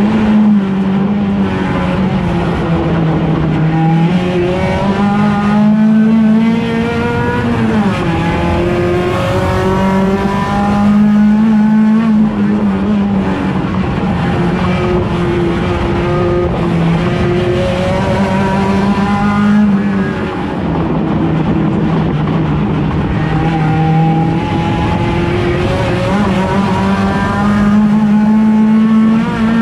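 1.6-litre touring race car engine held at high revs, its pitch climbing through each gear and dropping sharply at each upshift, several times over, with the odd quick rise between.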